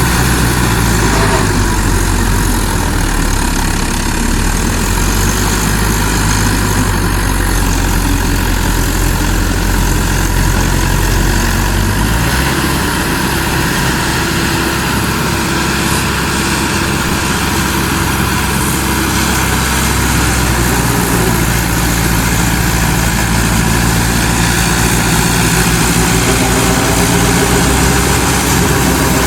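Farm tractor's diesel engine running steadily and loudly, its engine note shifting about twelve seconds in and again around twenty-one seconds.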